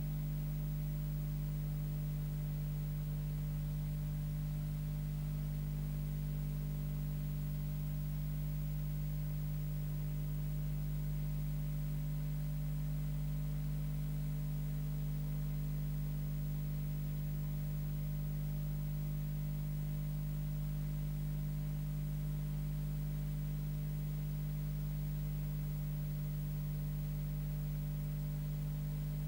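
Steady electrical hum with a few fixed low tones and a light hiss, unchanging throughout, with no other sound.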